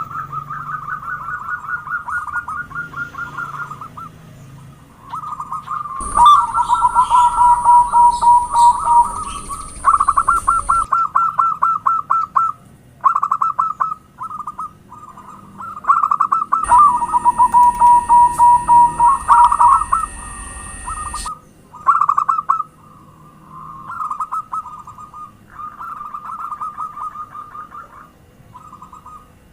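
Zebra doves cooing: phrases of rapid, stuttering notes repeated with short gaps between them. In two louder stretches two voices at slightly different pitches overlap, over a steady high hiss.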